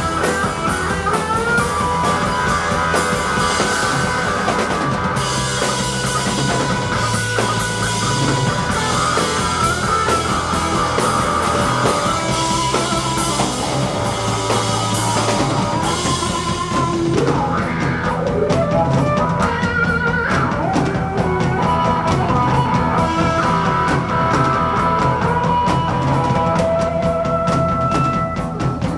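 Live rock band playing an instrumental stretch with drum kit, electric guitar and bass, at a steady loud level.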